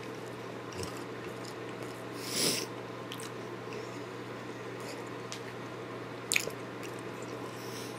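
Person chewing a mouthful of crispy deep-fried Hostess cupcake, with faint mouth clicks, a short breathy rush about two and a half seconds in, and a sharp click a little after six seconds, over a steady low hum.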